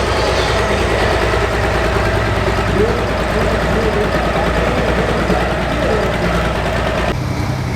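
Pro Farm diesel pulling tractor engine running loud and steady, with the sound changing abruptly about seven seconds in.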